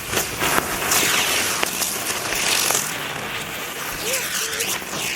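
A heap of small firecracker rockets ('dulces') and 'acuarelas' fireworks burning together: loud, dense hissing with many sharp crackles and pops, and a brief wavering whistle about four seconds in.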